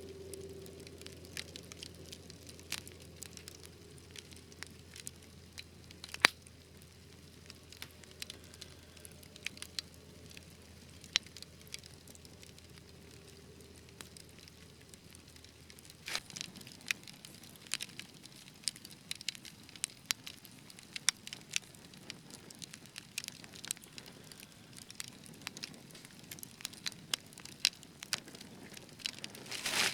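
Wood fire crackling in a fireplace: scattered sharp pops and snaps over a soft hiss, one loud pop about six seconds in, the crackles coming more often in the second half.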